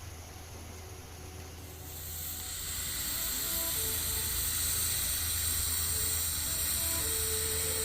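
Steam hissing steadily from a spirit-fired MSS live-steam model locomotive as it raises steam. The hiss swells about two seconds in and then holds level.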